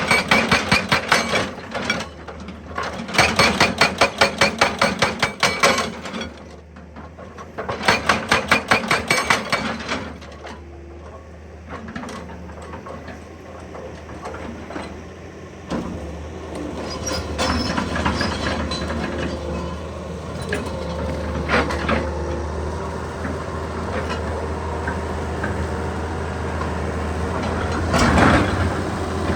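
Excavator-mounted hydraulic breaker hammering in three bursts of rapid blows over the first ten seconds, then the excavator's engine running steadily with a low hum.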